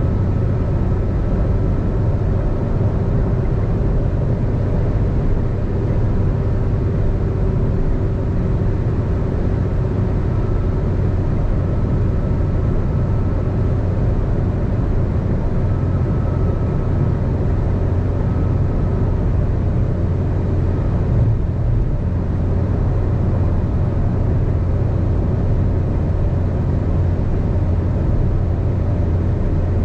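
A car driving at freeway speed: steady low rumble of tyres on the road and engine drone. A faint high whine comes and goes.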